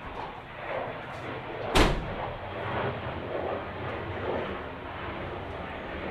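A single loud slam about two seconds in, like a heavy vehicle door being shut, with softer clunks around it.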